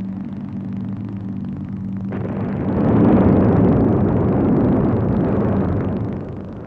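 A steady low drone, then about two seconds in a sudden bomb explosion whose rumble swells and dies away over about four seconds.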